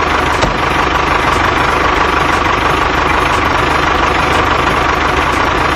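A motor running steadily, with a fast, even low throb beneath a dense hum.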